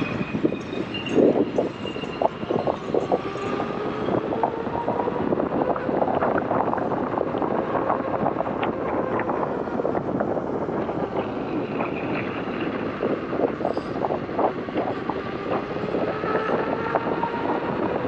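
Electric unicycle being ridden: a faint motor whine that slowly rises and falls in pitch with speed, under wind noise on the microphone, with many short clicks and knocks.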